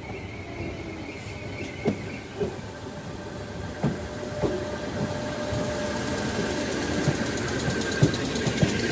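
A train at a station platform running with a steady mechanical hum, a few sharp knocks coming at irregular intervals as the sound grows slowly louder.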